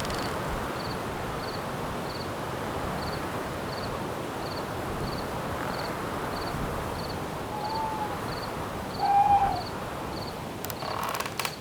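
Night forest ambience: a steady hiss of wind, and a cricket chirping high and evenly, about three chirps every two seconds. About two thirds of the way in an owl calls twice with short hoots, the second louder, and a burst of fast clicking follows near the end.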